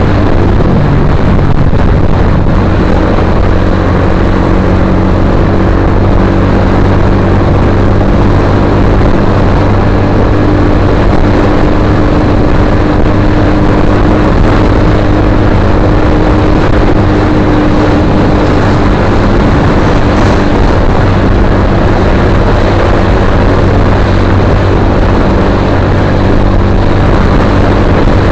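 Suzuki GSX-R150's single-cylinder engine running steadily through an aftermarket Akrapovic-style slip-on exhaust, a loud, even exhaust note that shifts only slightly in pitch.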